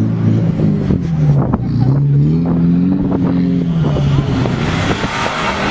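Car engine revving under load as the car drifts on snow, its pitch rising about two seconds in and falling back. A rushing hiss builds near the end.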